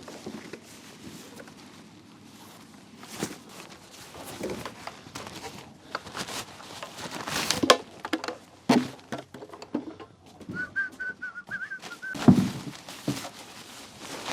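Gear being handled and unloaded from bags: rustling with scattered knocks and thunks. A short wavering whistle-like call comes about ten and a half seconds in.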